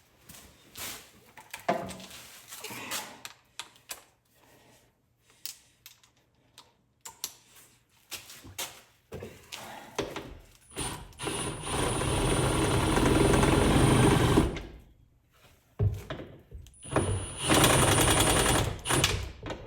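Power drill run in two long bursts, about ten seconds in and again near the end, driving in the wall anchors; scattered knocks and clicks of handling the tool and hardware before it.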